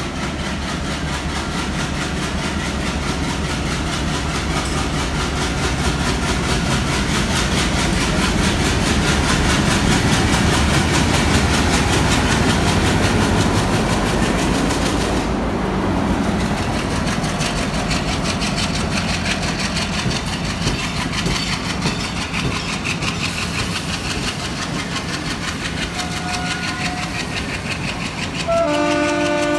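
Diesel-hauled passenger train running along a station platform: the steady rumble of the locomotive's engine and the carriage wheels on the rails. A train horn with several tones sounds suddenly near the end.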